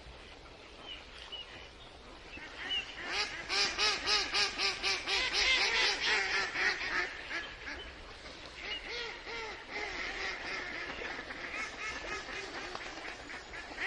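Ducks quacking: a fast run of short quacks from about three seconds in, then softer, more scattered quacking.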